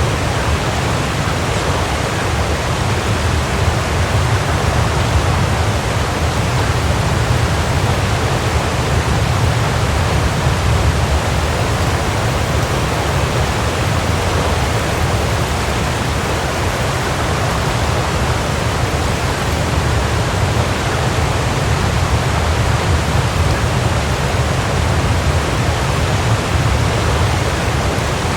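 Waterfall: a steady, even rush of falling water, with a strong low rumble.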